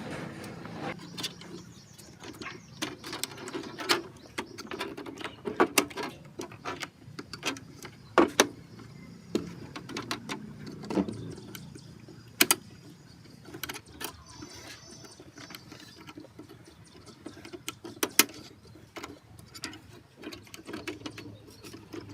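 Irregular sharp clicks and knocks of small metal parts and hand tools being handled, with a brief high squeak about two-thirds of the way through.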